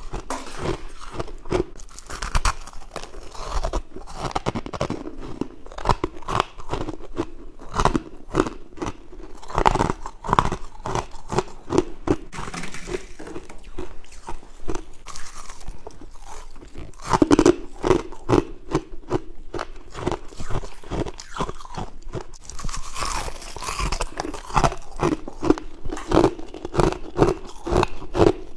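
Close-up biting and chewing of humidifier frost: continuous crisp crunching, many crunches a second.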